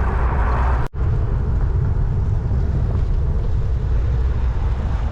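Wind buffeting the microphone while riding a road bike, a steady low rumble with road noise, broken by a brief gap in the sound about a second in.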